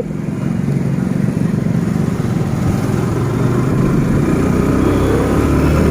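Motorcycle engine running steadily while riding, with wind and road noise. It gets a little louder and deeper near the end.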